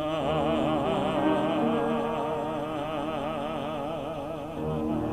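A male soloist holds one long sung note with a wide vibrato over piano accompaniment, in the closing phrase of the carol.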